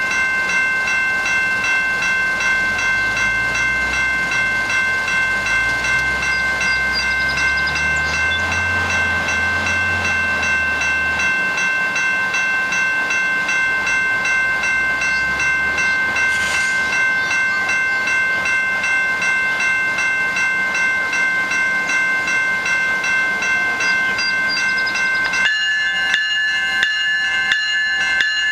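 GO Transit diesel commuter train moving slowly, with a steady high-pitched ringing squeal of several held tones. Between about three and eleven seconds in, the locomotive's diesel engine rumbles underneath. Near the end the squeal changes to a regular beat of short strikes about once a second.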